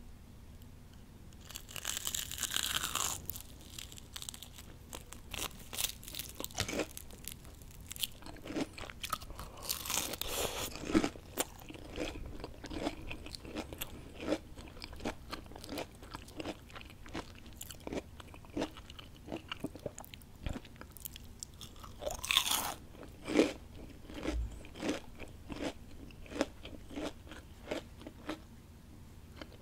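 Crunchy fried onion rings being bitten and chewed: loud crisp bites about two seconds in, around ten seconds and again around twenty-two seconds, with a steady run of sharp crunches from chewing between them.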